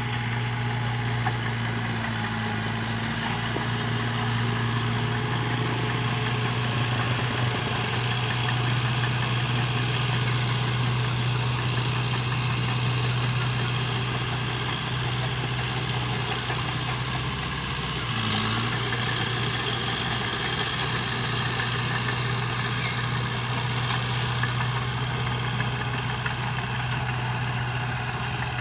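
Diesel engine of a heavy earthmoving machine running steadily, with a brief waver in pitch about two-thirds of the way through.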